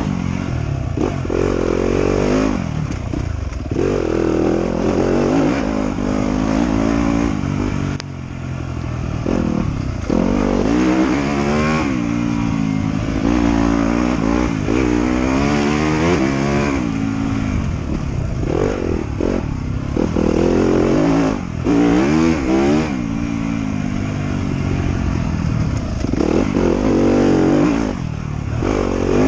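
Motorcycle engine being ridden on a trail: it revs up and drops back again and again as the throttle is opened and closed, with a few brief dips about 8 and 21 seconds in.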